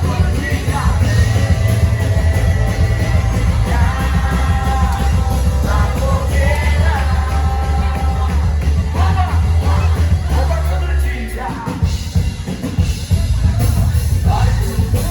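Church children's band playing a gospel song live, with voices singing over bass and drums. About two-thirds of the way through, the bass and drums drop out for a couple of seconds, then come back in.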